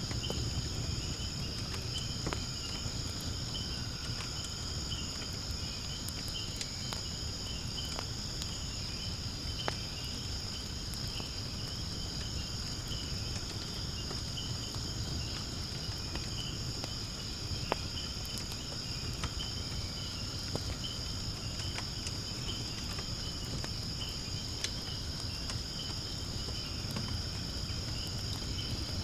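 Wood fire burning in a fire pit, crackling with scattered sharp pops, two louder ones about ten and eighteen seconds in, over a low steady rumble. Insects chirr steadily and high-pitched throughout.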